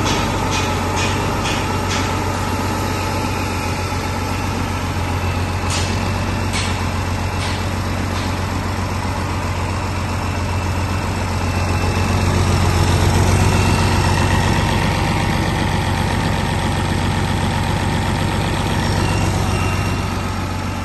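2005 International DT466E inline-six turbo diesel engine running steadily at idle, swelling a little in loudness about twelve seconds in. A few sharp ticks sound in the first two seconds and again around six seconds in.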